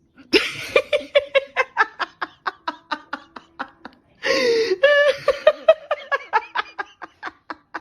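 A person laughing hard: long runs of rapid, rhythmic 'ha-ha' pulses in two bouts, with a short break about four seconds in.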